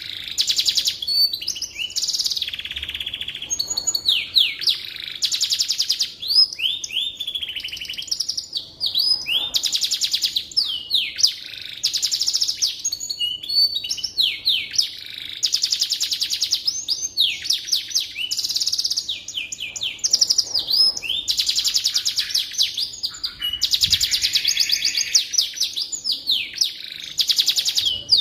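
Domestic canary singing: a long run of rapid rolling trills and quick rising and falling whistles, phrase after phrase with only brief breaks.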